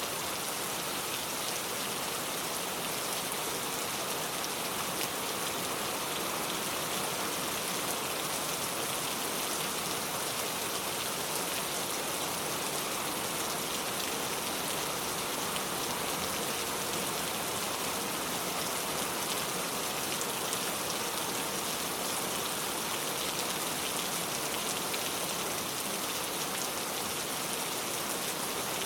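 Steady rain falling, an even hiss of countless drops with no letup.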